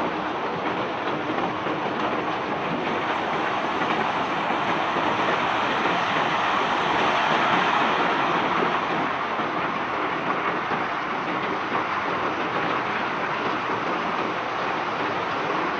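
A mass of cobblestones sliding and tumbling off a barge, a continuous rattling rumble of stone on stone and steel that swells about halfway through.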